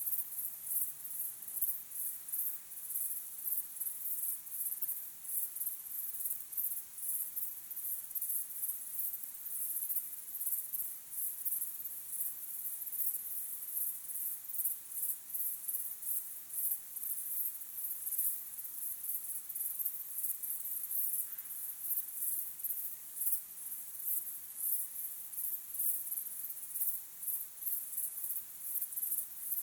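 Crickets chirping in a steady, high-pitched pulsing chorus of rapid, evenly repeated chirps that never lets up.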